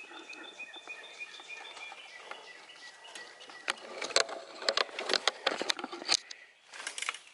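Creekside ambience with a repeated high chirping call for the first couple of seconds, then a run of sharp clicks and rustles from close handling, typical of a small fishing rod and its tangled line being worked free.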